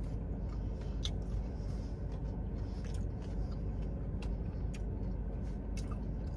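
Chewing of crispy fried chicken close to the microphone: scattered sharp mouth clicks and small crunches, about a dozen, the strongest about a second in, over a steady low background noise.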